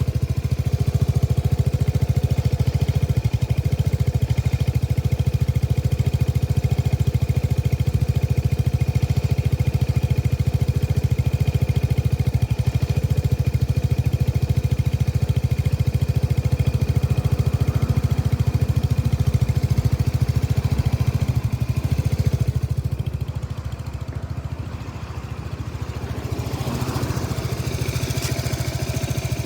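Lexmoto Nexus 125cc engine running at close range, with a misfire that the owner calls faulty. The engine drops quieter about three-quarters of the way through, then picks up again with a short rise in revs.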